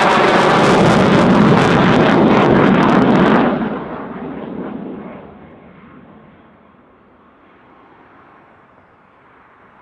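Military jet passing low overhead: very loud, crackling jet engine noise that drops off sharply after about three and a half seconds, then fades to a distant rumble as the jet moves away.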